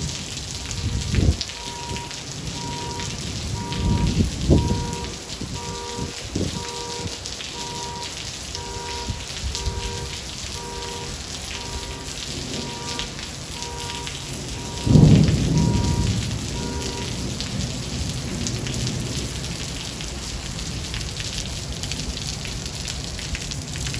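Heavy rain falling steadily in a thunderstorm. A few thunder cracks come in the first several seconds, then a loud thunderclap about fifteen seconds in rolls off into a rumble.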